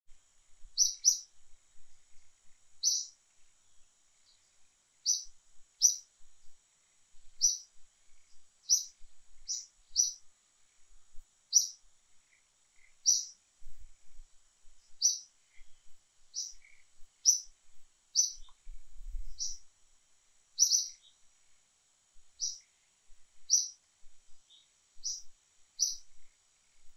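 A bird chirping: short, high notes every second or so, some in quick pairs, over a faint steady high hiss.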